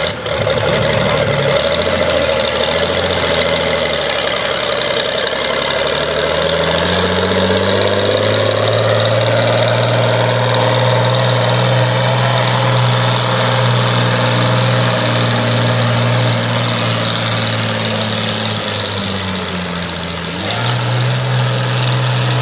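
Pulling tractor's engine running hard, its pitch climbing over a few seconds, holding high, then dropping off and picking up again near the end.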